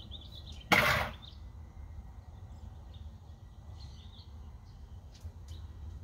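Faint bird chirping over a steady low outdoor background, broken by one short, loud burst of noise about three-quarters of a second in.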